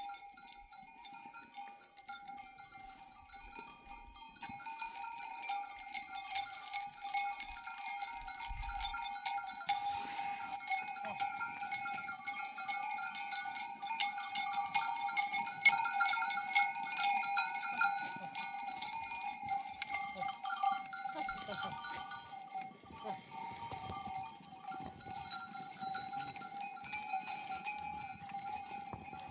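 Many bells on a herd of goats clinking and ringing together as the animals move, growing louder toward the middle and easing off near the end.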